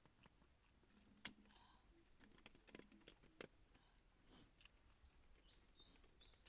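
Near silence with faint scattered clicks and, past the middle, a few short high chirps.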